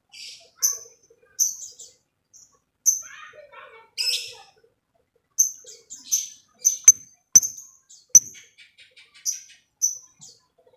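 Lovebird giving short, sharp, high-pitched chirps, one after another every half second to a second. A quick run of ticking notes follows near the end, with two sharp clicks just before it.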